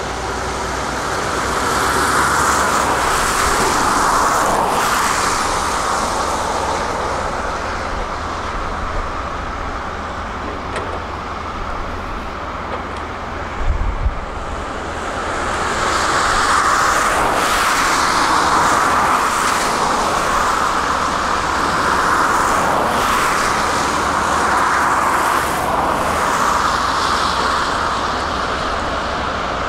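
Heavy construction machinery diesel engines running, swelling louder and easing off several times as the machines work. A short low thump comes about 14 seconds in.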